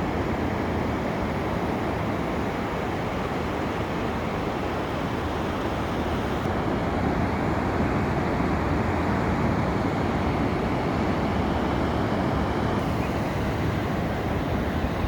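Steady, even rush of ocean surf and wind, with no distinct bird calls standing out.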